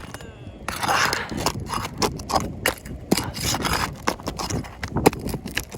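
Roof shingles being worked loose by hand: rough scraping with many sharp clicks and knocks.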